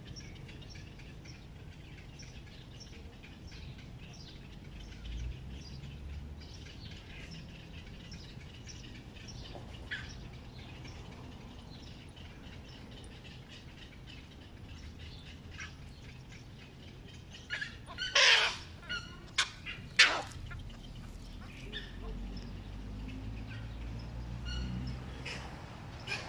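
Small birds chirping and singing in the trees throughout, with a few loud, harsh bird calls close together about eighteen to twenty seconds in, over a low background rumble.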